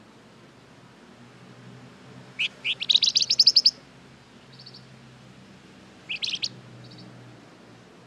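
Flamboyan songbird singing: a quick run of sharp, high chirps a few seconds in, then short trills and another brief chirp burst near the end.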